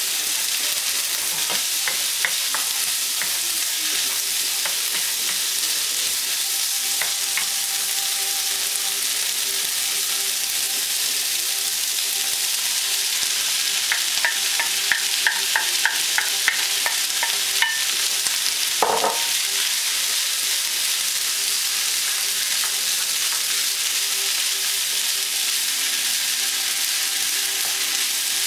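Yeung Chow fried rice sizzling in a hot non-stick wok while a wooden spatula stirs and scrapes it, with a steady hiss throughout. A quick run of clicking taps comes about halfway through, followed by a single short knock.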